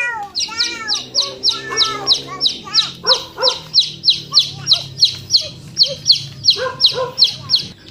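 A bird calling over and over: a rapid, even series of short high chirps, each sliding downward, about three a second.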